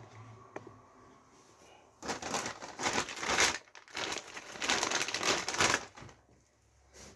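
Crinkling plastic packaging being handled in two bursts, the first about a second and a half long and the second about two seconds, with quieter rustling around them.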